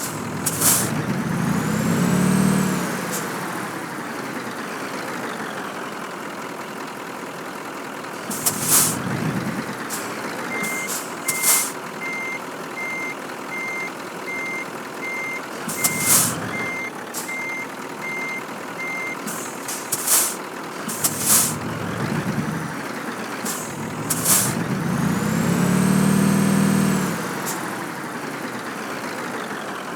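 Scania truck's diesel engine revving up and falling back twice while the truck manoeuvres, with short sharp air-brake hisses several times. A reversing beeper sounds steadily for about eight seconds in the middle.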